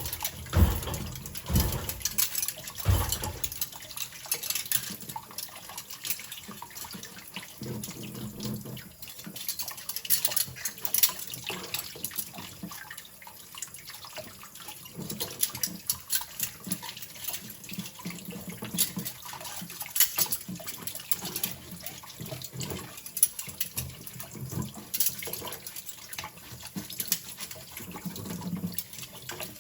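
Water running from a tap into a kitchen sink while cutlery is scrubbed, with frequent sharp clinks of metal knives, forks and spoons knocking together and against the sink.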